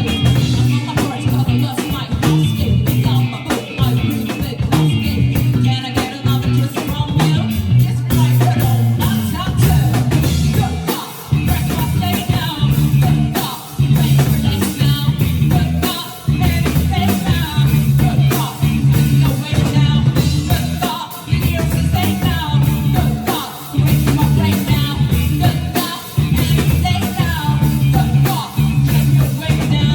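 Live band playing a rock song with a singer, drum kit, bass and guitar.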